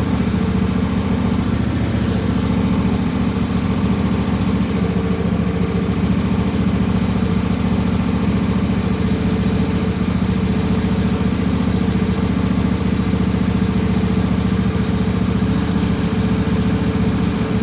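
Riding lawn tractor engine running steadily at an even speed.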